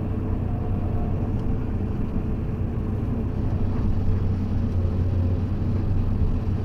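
A motor vehicle's engine running steadily as it drives, a continuous low drone.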